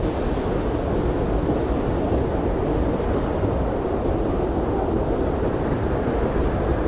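Blizzard wind blowing steadily: a deep, even rushing noise with most of its weight low and little hiss above.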